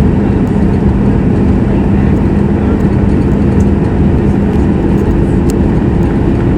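Steady jet engine and airflow noise heard inside the cabin of a Boeing 737 MAX 8 with CFM LEAP-1B engines, a loud even rumble with a low hum. The lowest hum tone fades about five seconds in.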